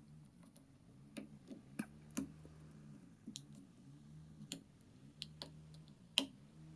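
Light, irregular clicks and taps from hand work at a bench, about eight in the span, over a faint, wavering low hum.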